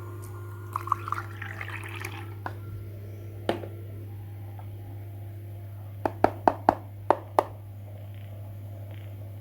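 A second or so of rustling and clicking, a single sharp tap, then a quick run of about seven sharp clicks. A steady low hum runs underneath.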